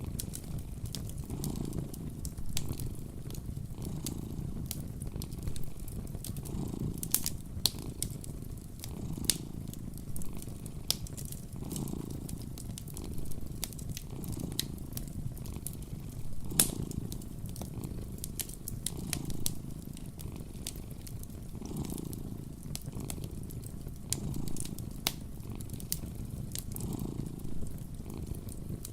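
Domestic cat purring close up, a low rumble that swells and fades with each breath, about every second and a half. Over it, a wood fire crackles with scattered sharp pops.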